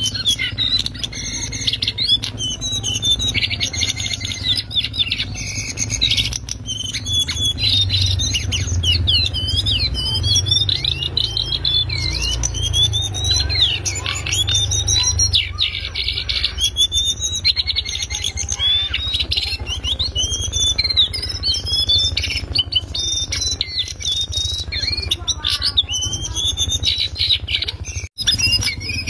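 Lesser shortwing (cingcoang coklat) singing a loud, fast twittering song of rapid high notes and quick up-and-down glides, unbroken, over a low steady hum. The sound cuts out for a split second near the end.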